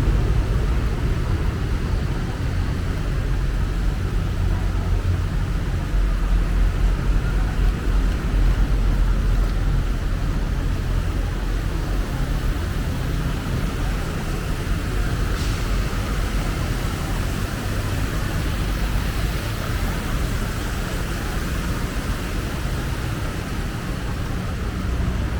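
Steady rumble of motor traffic on a busy city street, a low, continuous drone of passing vehicles.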